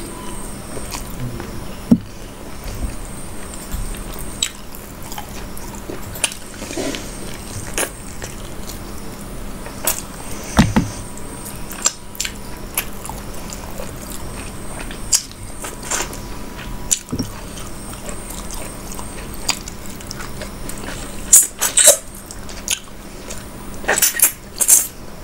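Close-miked chewing of mouthfuls of mughlai paratha and mutton curry, with scattered sharp mouth clicks over a faint steady hum. A cluster of louder clicks comes near the end.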